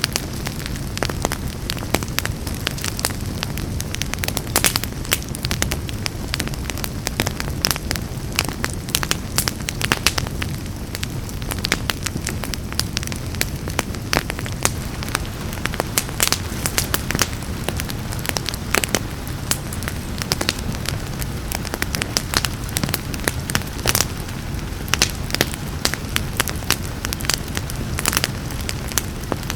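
Wood fire crackling, with frequent sharp snaps and pops over a steady low rumble, mixed with the even hiss of rain.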